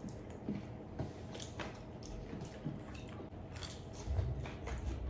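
People chewing food with wet mouth sounds and small scattered clicks as they eat with their hands, with a soft low thump about four seconds in.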